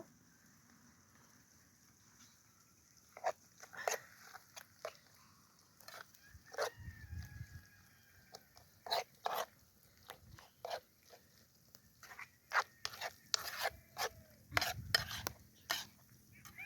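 Cooking utensil stirring food in a pot over an outdoor fire: irregular clinks and scrapes against the pot, with a few dull knocks.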